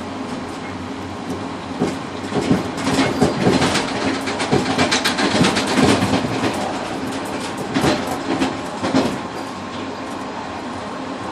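Passenger train running, heard from inside the rear cab of the tail car: a steady rumble and hum, with the wheels clattering over the rails in a dense run of sharp clicks from about two seconds in until about nine seconds in.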